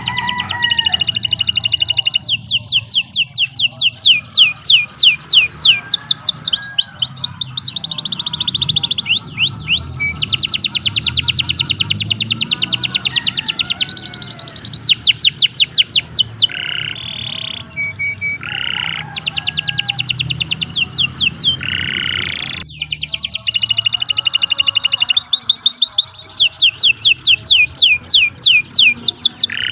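Domestic canary singing a long, unbroken song made of rapid trills: runs of quick identical notes, each run lasting a second to several seconds, shifting from one trill type to the next with brief breaks.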